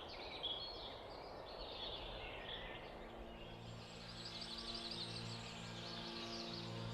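Faint bird chirps and calls over outdoor ambience, with soft held music notes fading in about halfway through.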